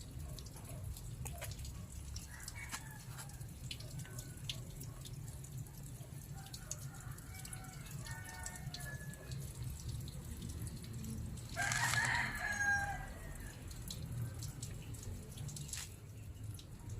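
A rooster crows once, loud and about a second and a half long, some twelve seconds in, over a steady low rumble; fainter clucking calls come a few seconds before it.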